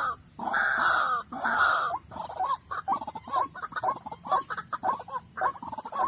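White-breasted waterhen calling: harsh calls for about the first two seconds, then a fast run of short, repeated notes, several a second.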